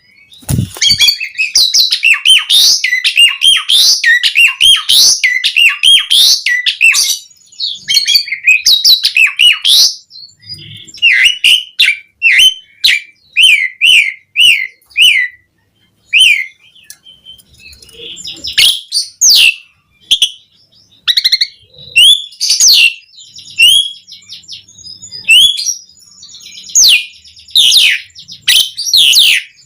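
Asian pied starling (jalak suren) singing vigorously: a rapid, varied run of chirps, short gliding whistles and rasping notes, packed with imitated phrases. There are brief lulls about ten and sixteen seconds in.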